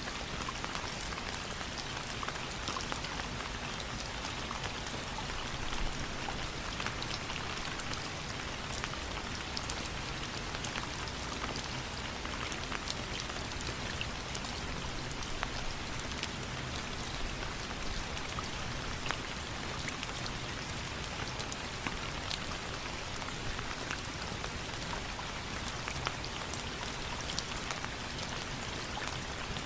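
Steady rain falling on a surface, an even hiss scattered with many small sharp drop taps.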